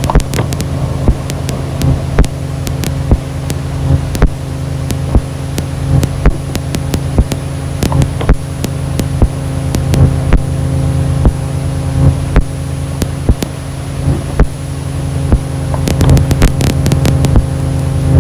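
Ambient noise music: a steady low droning hum with fainter higher tones, broken by irregular sharp clicks and crackles.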